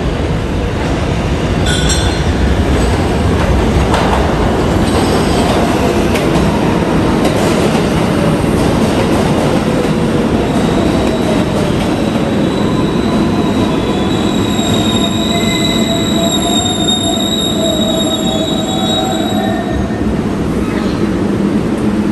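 New York City subway train running through a station with a steady loud rumble. From about halfway through, its wheels squeal in high, thin, wavering tones for roughly ten seconds.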